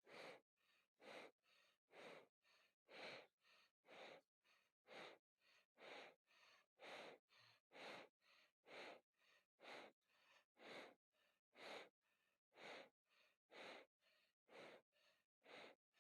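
Ceiling fan running, making faint rhythmic whooshes about two a second that alternate louder and softer.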